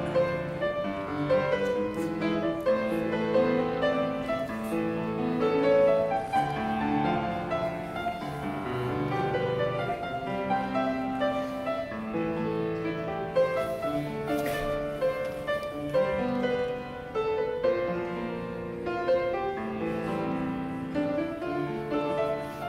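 Piano playing a classical-style piece, a moving melody over sustained lower notes.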